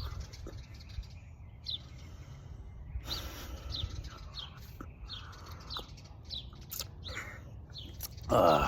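Birds chirping over and over in short high notes, about two a second, agitated, with a louder, harsher call near the end.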